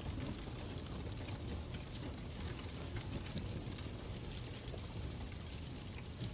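Fireplace crackling: a steady low rumble with scattered, irregular pops and crackles.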